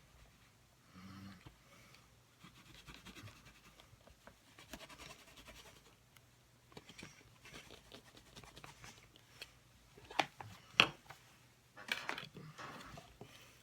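Quiet, intermittent rubbing of rubber stamps being wiped clean, with a few sharp taps or clicks about ten to eleven seconds in.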